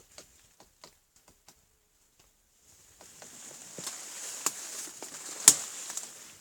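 Woodpecker pecking at old bird cherry wood: scattered light taps at first, then a rustling stretch with a few sharp, louder blows, the loudest about five and a half seconds in.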